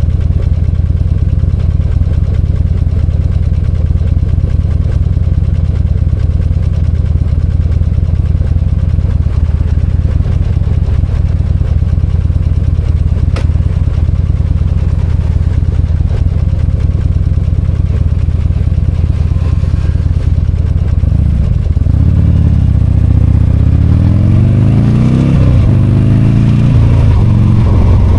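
V-twin motorcycle engine running steadily at low revs, then from about three-quarters of the way through revving up and dropping back several times, its pitch rising and falling.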